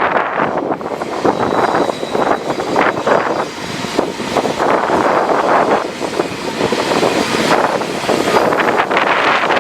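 Strong wind buffeting the camera's built-in microphone, a loud gusty rush that swells and dips.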